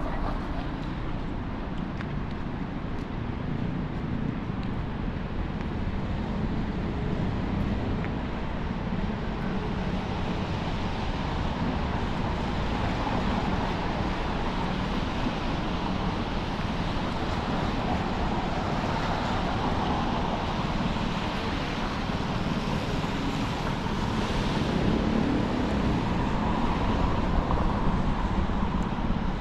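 Rainy city street ambience: steady traffic noise of cars on wet pavement, swelling a little near the end as vehicles pass closer.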